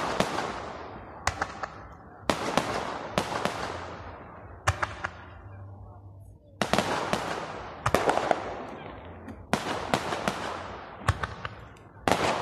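Aerial fireworks going off: sharp bangs every second or two, some in quick groups of two or three reports, each followed by a long fading echo.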